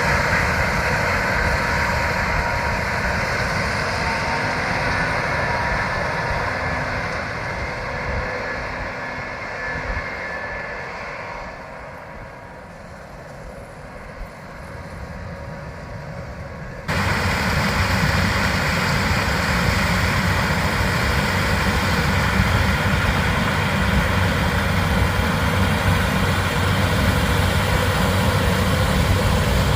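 Heavy farm machinery engine running steadily during corn harvest. It fades away a little past halfway, then cuts abruptly back in louder and steady with a deep low hum.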